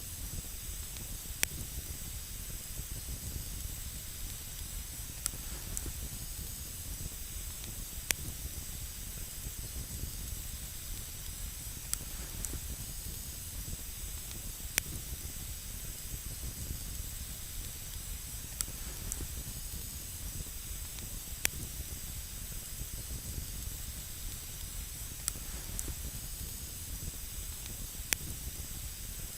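Campfire burning with a steady hiss and low rumble, broken by single sharp crackles and pops of burning wood every one to three seconds.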